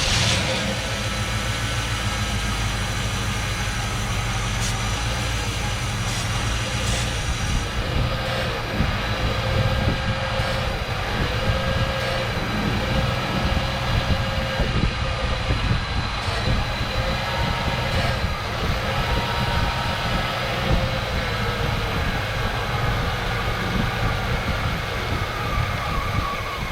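Freshly rebuilt Pontiac Grand Prix car engine running after its first start, its pitch drifting gently up and down. The owner suspects he made a mistake rebuilding the carburetor.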